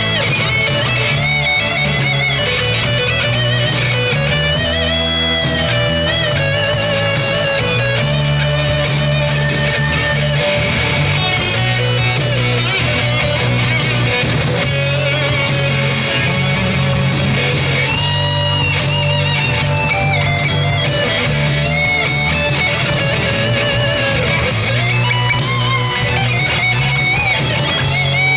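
Live band music: a quick steady beat over a steady bass, with a melodic line moving above it.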